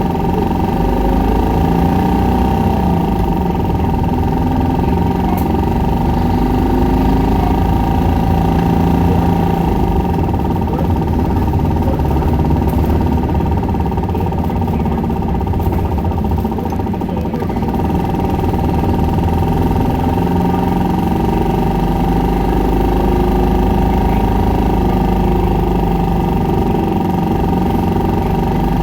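Isuzu Erga 2KG-LV290N2 city bus under way, its four-cylinder turbo diesel engine running at high revs about two-thirds of the way through, with a steady high-pitched whine over the engine noise.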